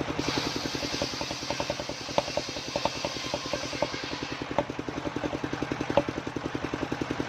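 Engine of a homemade circular saw rig running with a steady rapid thudding, about ten beats a second. For roughly the first four seconds a hiss of the blade cutting through waru wood rides over it, then stops, with a few sharp knocks along the way.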